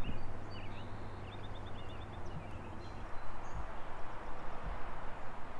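Outdoor background noise with a low steady hum, and small birds chirping during the first couple of seconds, including a quick run of about seven short notes.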